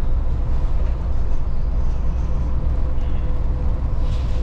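Volvo 8900 city bus heard from on board while driving: a steady low engine and road rumble with a faint even whine above it.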